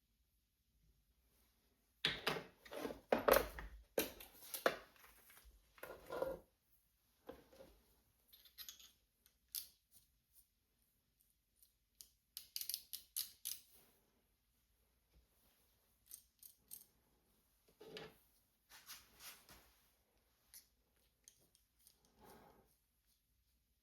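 Light metallic clicks, taps and scrapes of small measuring tools being handled: snap (telescoping) gauges being set and worked inside a steering wheel's bore. A busy run of handling sounds comes about two seconds in, then scattered ticks and another short cluster later.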